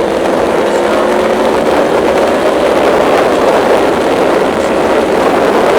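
Steady wind rush on the rider's microphone with an Aprilia Tuono V4's V4 engine droning underneath while cruising at highway speed.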